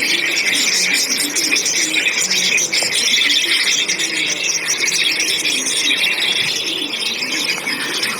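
Many small birds chirping together in a dense, steady chatter of high, rapid calls.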